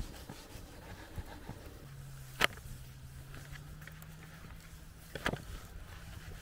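Two sharp clicks about three seconds apart, over a low steady hum that starts about two seconds in and a low rumble.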